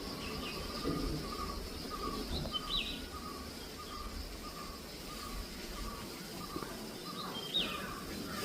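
A bird calling with a steady series of short, evenly repeated notes at one pitch, a little over two a second, with a couple of brief higher chirps between.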